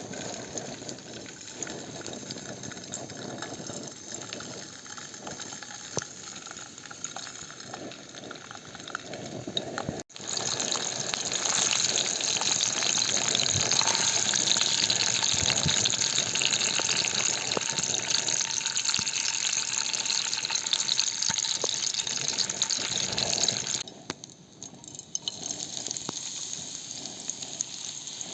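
Steady hissing and bubbling of food or drink heating in cookware. It cuts out abruptly about ten seconds in, comes back much louder, then falls back near the end.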